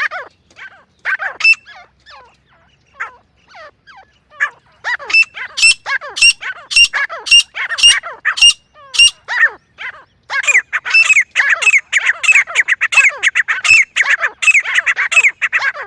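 Francolins calling: short, sharp, downward-sweeping notes, scattered at first, then a regular run of loud calls about twice a second from about five seconds in, becoming a dense overlapping chorus of several birds from about ten seconds in.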